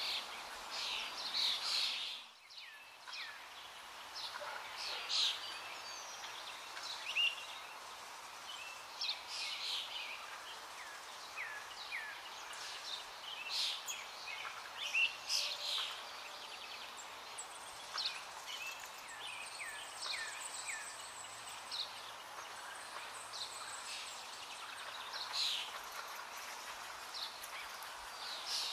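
Birds chirping: many short, scattered calls, some of them quick falling notes, over a steady outdoor hiss.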